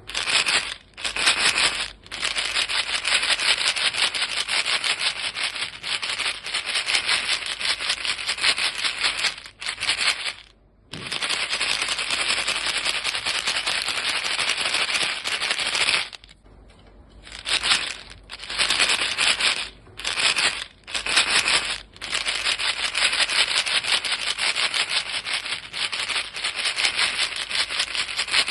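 A box of chewing-gum pellets shaken steadily, the pieces rattling rapidly against the box. The rattling comes in long runs with brief pauses, the longest about 11 and 17 seconds in.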